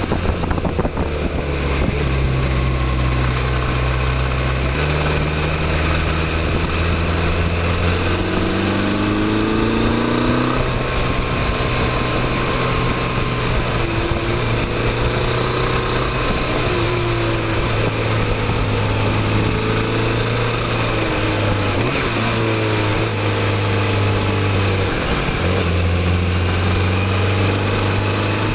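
Motorcycle engine running under way, its revs stepping up and down with several gear changes and climbing on throttle, over a steady rush of wind on the microphone.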